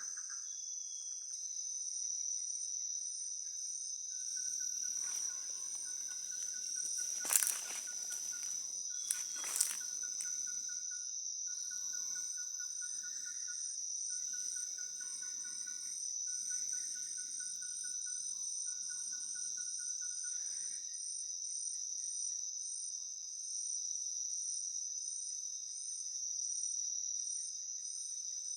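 Tropical rainforest insect chorus: a steady high-pitched drone with a faster pulsing trill above it, and a lower pulsed trill that comes in short runs through the first two-thirds. Soft rustling underneath through the middle, with two sharp clicks in the first half.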